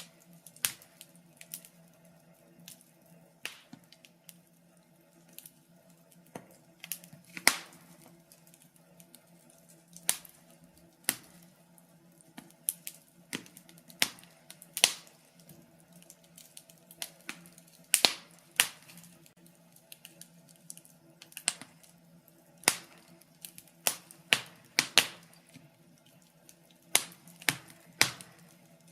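Wood fire burning in a fireplace, crackling with irregular sharp pops and snaps, sometimes several in quick succession and sometimes a few seconds apart, over a faint steady low hum.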